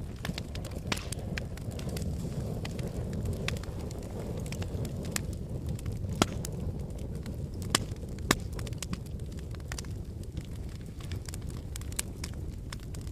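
Wood fire burning in a fireplace: a steady low rumble of flames with irregular sharp crackles and pops, a few louder snaps around the middle.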